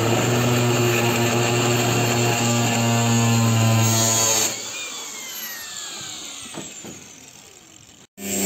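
Electric power tool motor running at steady speed, then switched off about four and a half seconds in and winding down, its whine falling in pitch as it fades.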